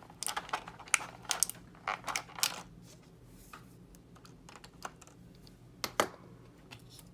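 Small plastic model-kit parts being handled and set down, giving a quick run of light clicks and taps for the first two and a half seconds, then a few scattered ticks and one sharper click about six seconds in.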